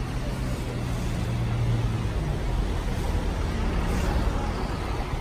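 Bus engine running with a steady low hum and rushing noise, heard from the top deck.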